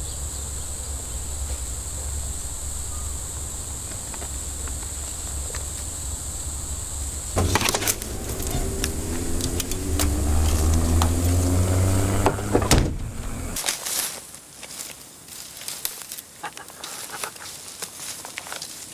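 Car engine running with a steady low rumble, then rising in pitch for a few seconds past the middle as if revved. The sound cuts off abruptly twice, and the last few seconds are quieter with scattered small clicks and rustles.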